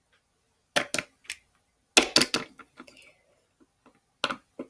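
Sharp taps and clicks of small plastic toy figures being moved and set down on a playset: two about a second in, a quick cluster around two seconds, and two more near the end.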